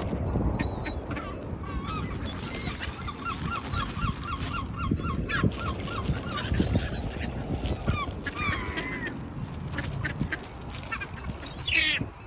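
Waterfowl calling: many short calls, with a quick run of repeated calls a few seconds in and a louder call near the end, over a steady low rumble.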